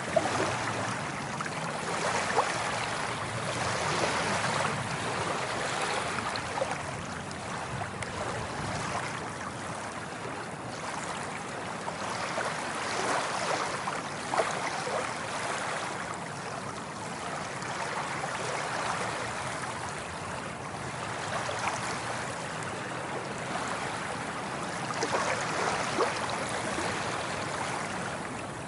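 Ocean waves washing in, a steady rush that swells and eases every few seconds, with a few brief sharp splashes.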